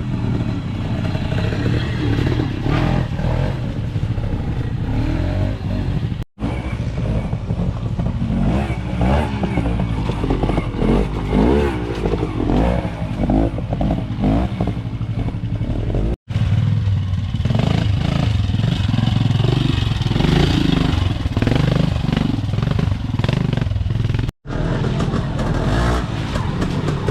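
Classic trials motorcycles working through a trials section, engines revving up and down as each bike picks its way over the ground. The sound breaks off abruptly three times as one bike's run gives way to the next.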